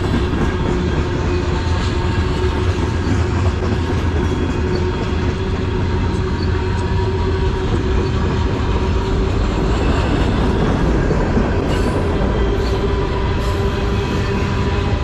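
CN manifest freight train's cars rolling past at close range: a loud, steady rumble of wheels on rail with a steady whine held over it.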